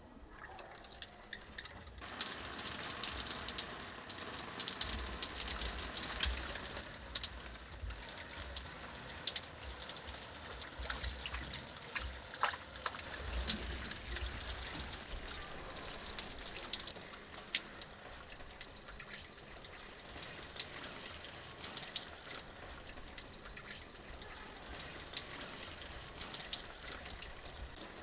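Water running and splashing into a basin or sink, starting suddenly about two seconds in with small drips and splashes, strongest for the first few seconds and then a little quieter.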